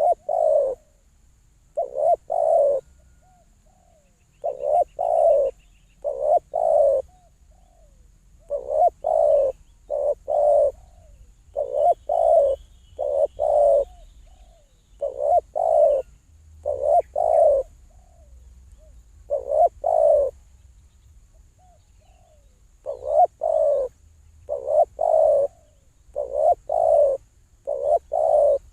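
Dove cooing: low coo notes in groups of two or three, repeated every couple of seconds. A faint steady high hiss runs underneath.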